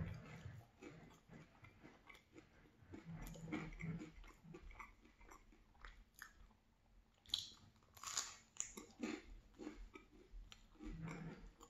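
Close-miked chewing and biting of a cheese-filled bagel with jam: wet mouth sounds and soft clicks coming in irregular bursts, with a sharper, louder sound about eight seconds in.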